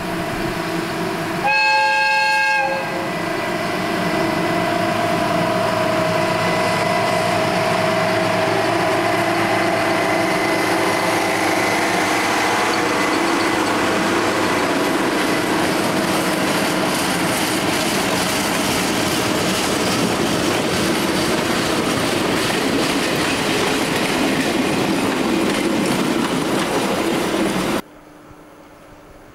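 Diesel locomotive sounds one horn blast of just over a second, about two seconds in, then its engine and the wheels of its train of coaches and wagons run past steadily, with some clickety-clack. The sound stops suddenly near the end.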